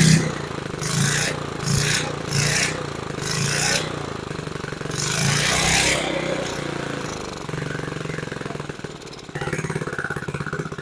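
Small engine of a 1950s Sears reel mower running unmuffled. It surges up and down about twice a second, then settles into a steadier fast run. The carburetor needs adjusting and the engine won't idle down.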